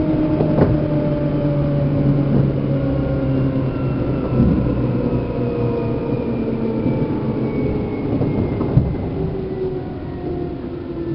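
Running sound heard inside a Seibu New 2000 series electric train's motor car: the traction motor and gear whine falls slowly in pitch as the train slows. A few wheel knocks over rail joints sound at intervals.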